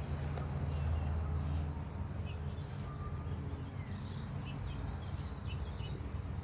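Faint, scattered chirps of small garden birds over a steady low outdoor rumble.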